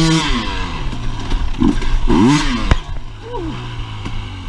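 Husqvarna enduro motorcycle engine, its revs rising and falling twice as the throttle is opened and closed, then a sharp knock and the engine settling to a steady idle for the last second and a half.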